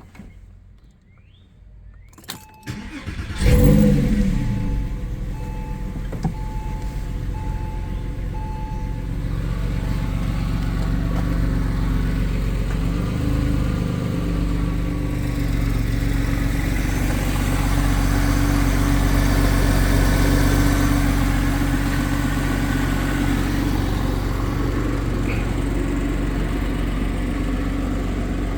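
Porsche 911 flat-six cold start: after a couple of clicks it cranks briefly and catches about three seconds in, flares up loudly, then settles into a steady fast idle. A repeating electronic beep sounds for several seconds after the engine starts.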